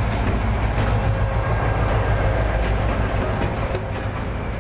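Passenger train rolling into the station behind an HGMU-30R diesel-electric locomotive: a steady, loud low diesel hum, with irregular clicking of wheels over rail joints and a thin, steady, high-pitched squeal over it.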